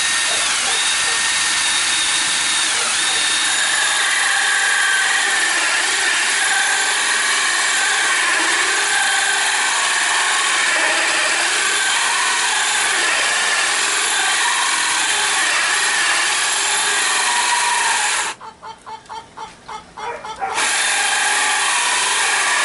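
Electric drill running almost continuously under load, its pitch wavering. About 18 seconds in it stops for two seconds, with a few quick pulses, then runs again.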